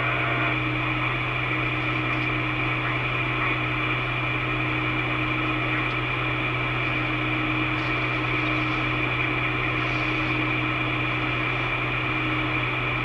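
Steady hiss and hum of a radio receiver between transmissions on a railway radio channel, unchanging throughout.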